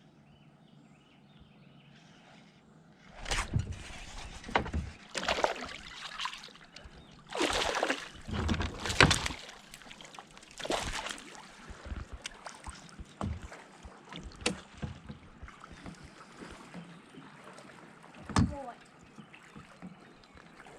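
Water splashing and knocks against a kayak in loud irregular bursts, starting about three seconds in, as a small spotted bass is fought and landed; lighter clicks and taps follow.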